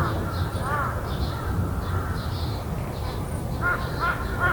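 Crow cawing: a single caw at the start and another under a second in, then a quick run of caws near the end. Fainter high chirps from other birds sound over a steady low background rumble.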